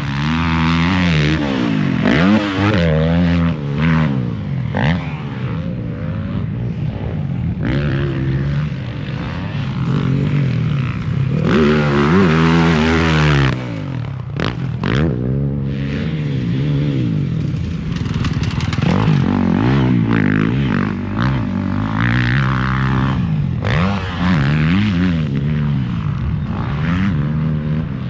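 Motocross dirt bike engines revving up and falling off again and again, with the throttle opened and closed in quick cycles.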